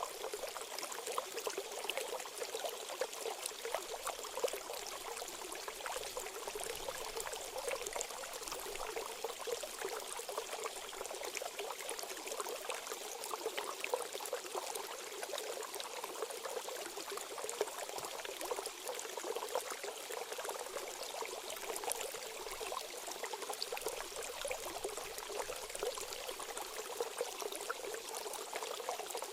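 Steady trickling, splashing water, like a small stream or fountain, played as a water-therapy track for cage songbirds.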